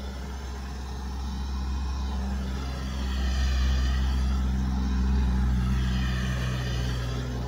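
A motor vehicle's engine rumbling as it passes close by, swelling to its loudest about halfway through and fading towards the end.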